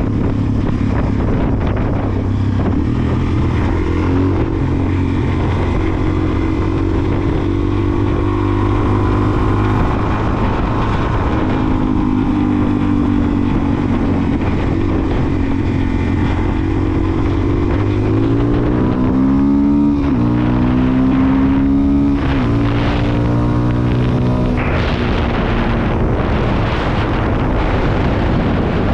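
Suzuki DR-Z400SM's single-cylinder four-stroke engine running under way, with wind noise on the microphone. Around twenty seconds in, the revs climb and cut back sharply twice.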